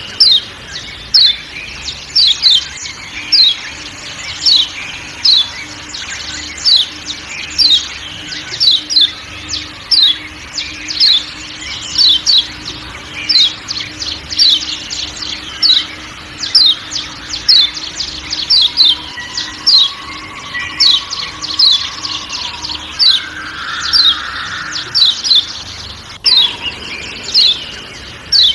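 Kecial kuning (Lombok white-eye, a Zosterops) giving its repeated sharp 'ciak' call. The call is a string of short, high, falling chirps, about two a second and often in pairs, over a faint forest background with a steady low drone.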